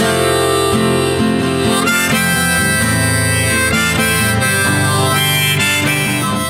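Instrumental music: a harmonica playing sustained notes over guitar accompaniment, the closing bars of a song after the singing has ended.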